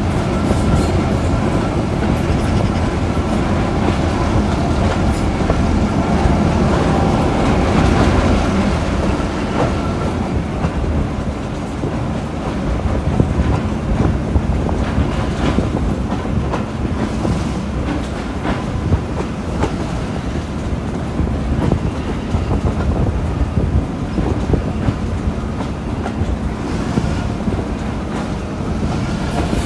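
A train hauled by a Class 08 diesel shunter running along the line: a steady rumble with the wheels clicking over rail joints. A thin, steady high tone sounds over it for the first ten seconds or so, then fades.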